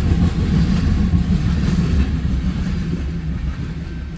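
Freight train rolling past: a steady, loud low rumble of wheels and cars on the rails, easing slightly near the end.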